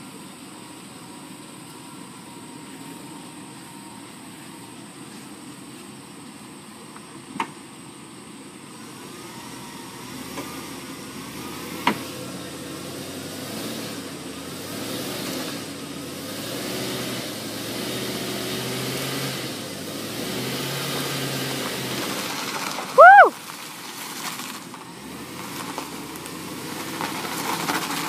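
Vehicle engines running under load as a pickup truck tows a stuck minivan out with a tow strap; the engine sound builds through the middle. Two sharp clicks and, near the end, a brief loud squeal that rises and falls in pitch.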